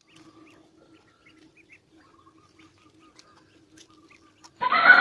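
Faint bird chirps over a low steady hum, then, about four and a half seconds in, a loud horse neigh begins.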